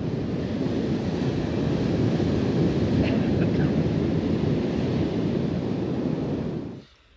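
Wind buffeting the microphone over the rush of sea surf on a beach: a steady noise that cuts off abruptly near the end.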